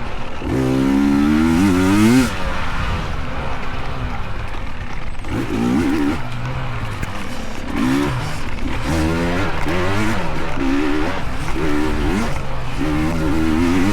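Small dirt bike engines revving hard and rising in pitch, with one loud rev cutting off about two seconds in. From about five seconds on come repeated short blips of the throttle, roughly one a second near the end.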